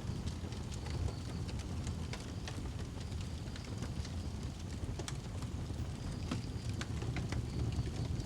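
Wood fire burning in a fireplace: irregular sharp crackles and pops over a steady low rumble of the flames, with a faint high whistle coming and going.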